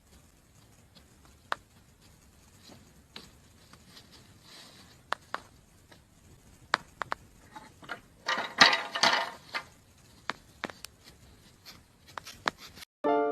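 Scattered sharp taps or clicks, with a brief rough scraping or rustling burst about eight seconds in; piano music starts at the very end.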